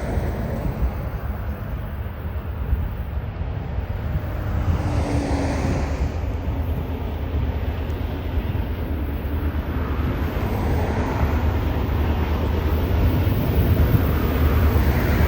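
A train passing, with a steady low rumble that grows a little louder toward the end.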